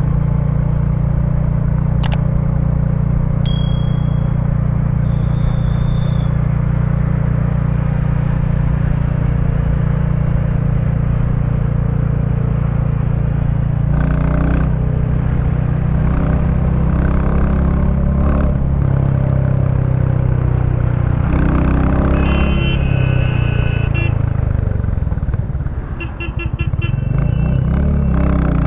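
2023 Royal Enfield Bullet 350's single-cylinder engine running through its stock exhaust while riding, steady for about the first half, then its revs rising and falling with throttle changes and dipping briefly near the end. Short high beeps sound over it in the second half.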